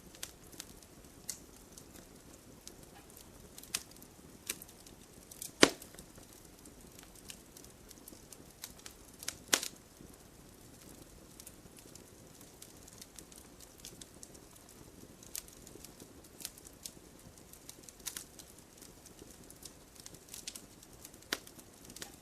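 Wood fire in a fireplace crackling: irregular sharp pops and snaps over a faint low hiss, with two louder pops about six and ten seconds in.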